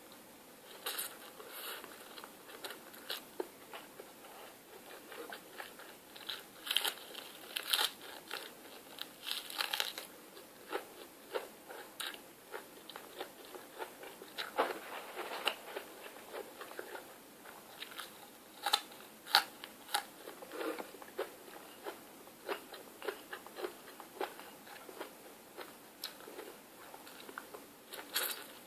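Close-miked eating: crunchy bites and chewing in an irregular run of short crisp clicks and crackles, with no speech.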